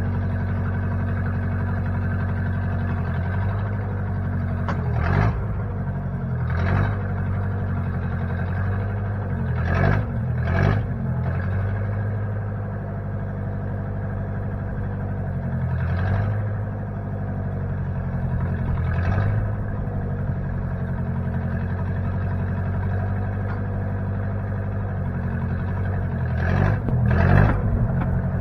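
Engine of a 1960 Case 540 backhoe running steadily at idle, with a handful of short louder sounds over it, two of them close together near the end.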